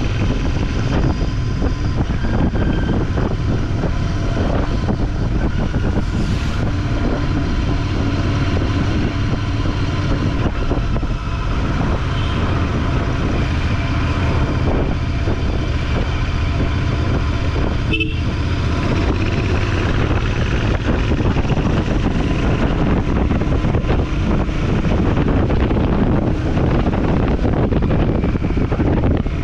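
Motorcycle being ridden: steady engine and road noise.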